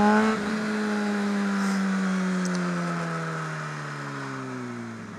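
Honda CBR600RR inline-four engine running on the move. Its pitch peaks briefly at the start, then slides steadily down and fades as the bike slows off the throttle.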